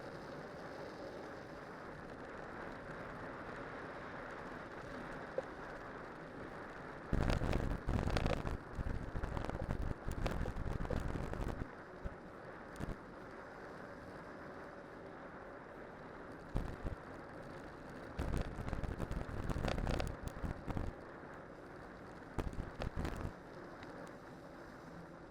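A cyclocross bike on spiked tyres rolling steadily downhill, making a continuous rushing hiss. Wind buffets the microphone in irregular loud gusts, several seconds long from about a quarter of the way in, and again in shorter bursts later.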